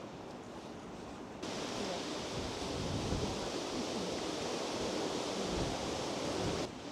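Steady rushing of river water, cutting in suddenly about a second and a half in and cutting off sharply just before the end; before it, a quieter steady rush of wind.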